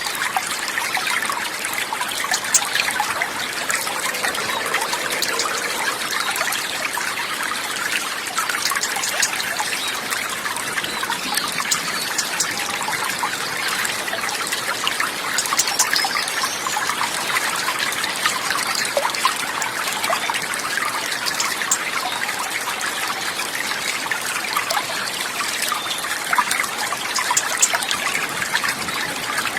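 Steady trickling, bubbling water, a continuous wash dotted with many small splashes and ticks.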